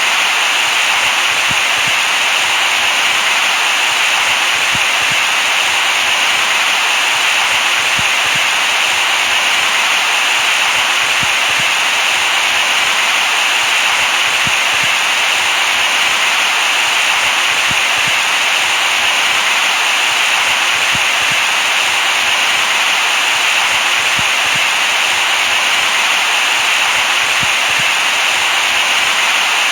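Steady synthetic hiss, loud and unchanging, strongest in the upper-middle range with little bass.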